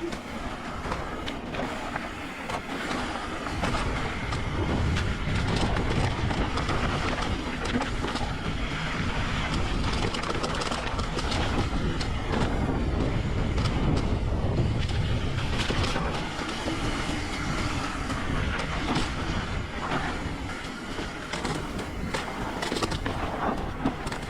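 Mountain bike riding fast down a dirt trail: tyres rolling over dirt and rocks and the bike rattling with many small clicks, over a low rumble that grows louder about four seconds in.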